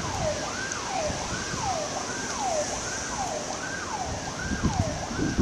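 A siren wailing in fast up-and-down sweeps, about one and a half a second, over a steady hiss.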